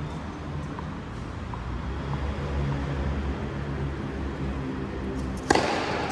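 Steady low rumble and hum, then near the end a single sharp hit, a racket striking the ball, that rings on in a large hall.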